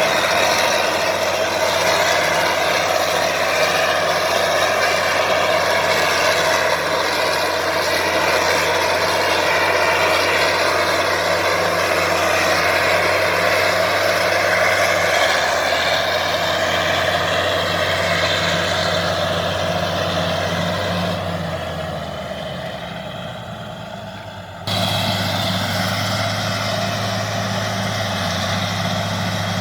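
Bulldozer's diesel engine running steadily under work, with the rattle and noise of the machine around it. About three quarters of the way in it fades down for a few seconds, then comes back suddenly at full level.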